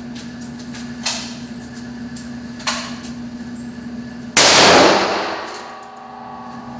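Gunshots: two quieter shots about one and two and a half seconds in, then a loud close shot about four seconds in that rings out for over a second.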